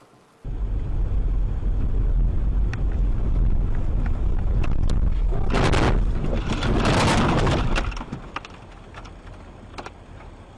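Driving vehicle heard through a dashcam: a loud low rumble of road and engine noise starts abruptly about half a second in, with two louder rushes of noise around the middle, and drops away about eight seconds in.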